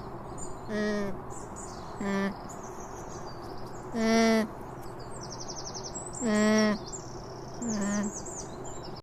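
Alpaca humming: five short, nasal hums spaced a second or two apart, with small birds chirping steadily in the background.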